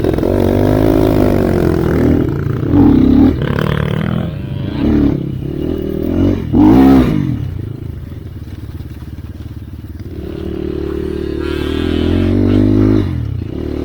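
Enduro dirt bike engine being ridden hard, revving up and down with sharp throttle blips about three, five and seven seconds in, easing to a lower note for a couple of seconds, then pulling up again near the end.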